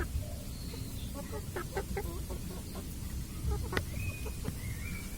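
Chickens clucking in short, irregular calls, with a steady low rumble underneath.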